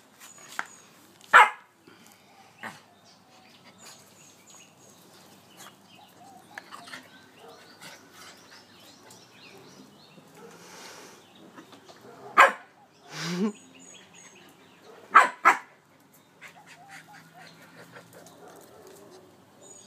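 Staffordshire bull terrier puppy barking in short, sharp single barks: one shortly after the start, then four more spread across a few seconds later on, two of them in quick succession. Faint bird chirps sound in the background.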